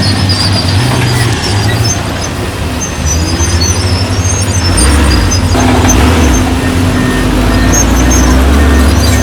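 Heavy diesel earthmoving machinery running, growing louder about halfway through, with short high squeaks over the engine sound.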